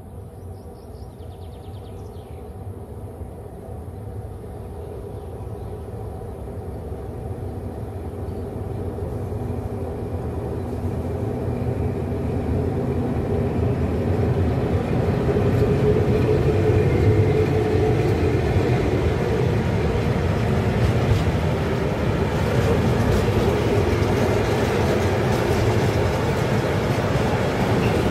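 A train approaching: its rumble grows steadily louder over about fifteen seconds, then holds loud and close.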